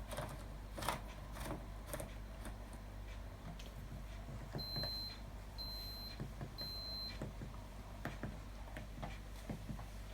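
Atlant washing machine beeping three times, short high beeps about a second apart, amid scattered light clicks and a low hum.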